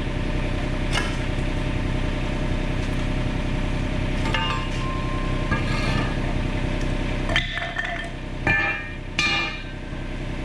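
Diesel engine of a mini excavator running steadily, with a few sharp metallic clanks and short squeals in the second half as the new rubber track is worked around the undercarriage.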